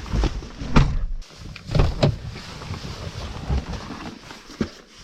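Strong wind buffeting the microphone in irregular gusts, with a few short sharp knocks about a second and two seconds in.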